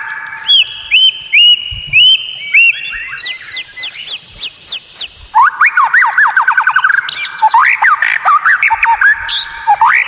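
White-rumped shama (murai batu) singing a fast, varied song of rising whistled notes. It includes rapid runs of quick, high, sweeping strokes, the first about three seconds in.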